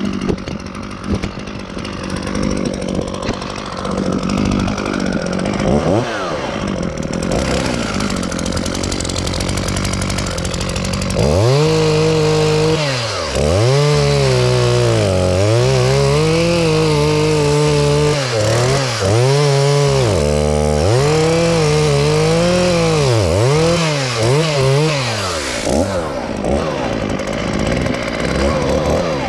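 Two-stroke chainsaw idling, with one short rev about six seconds in. From about eleven seconds it runs at full throttle cutting wood, its pitch dipping again and again as the chain bogs under load and recovering. Near the end it drops back to idle.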